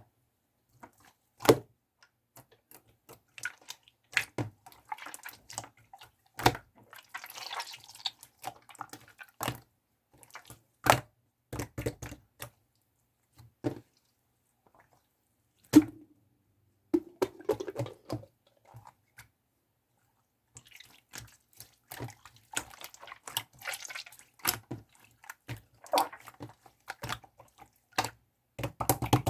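Wet, sticky clicks and squishes in short, irregular bursts, with a couple of brief pauses.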